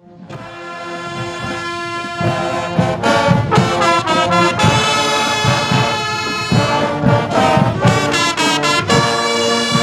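Guggenmusik carnival band playing: trumpets and trombones in loud, brassy chords over drum beats, swelling up over the first couple of seconds.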